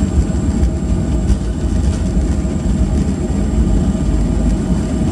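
Steady, loud low rumble inside the cabin of a Boeing 737-800 rolling on the runway just after landing, with the engine and wheel noise of the rollout, and faint steady tones higher up.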